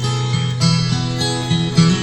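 Instrumental karaoke backing track with acoustic guitar playing chords, before the vocal comes in.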